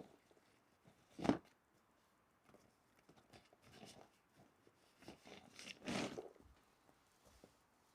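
Faint, scattered rustling and handling noises, with a sharp knock or clunk about a second in and a longer rustle around six seconds in.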